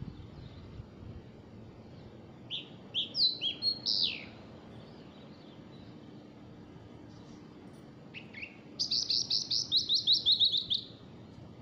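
A songbird singing: a few quick, downward-sweeping chirps about three seconds in, then a fast, loud trill of repeated falling notes near the end.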